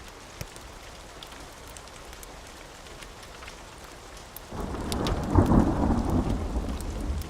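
Steady rain with a few sharp crackles, then about four and a half seconds in a loud clap of thunder breaks in and rolls on as a rumble.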